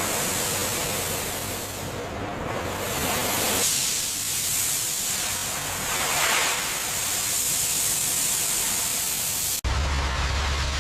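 Steady, loud hissing spray noise, like a high-pressure jet at work; it cuts off abruptly near the end to a lower hiss over a low steady hum.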